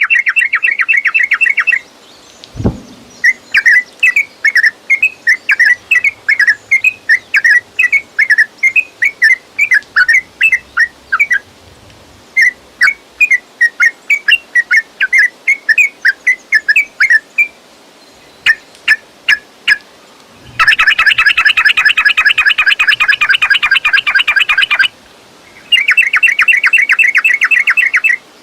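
Yellow-vented bulbul (trucukan) song: quick bubbly phrases alternating with long rapid chattering runs, the fast continuous 'ropel' singing of an excited bird. A single low thump about three seconds in.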